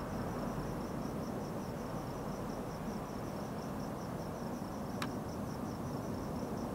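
Crickets chirping steadily, about four pulses a second, over a low rumble from the distant, departing police helicopter. A single sharp click about five seconds in.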